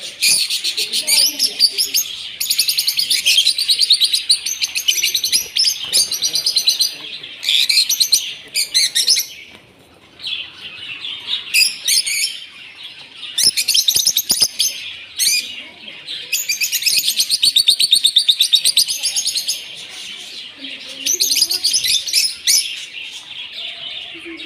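Many small birds chirping and twittering together in dense, rapid runs, with a short lull about ten seconds in.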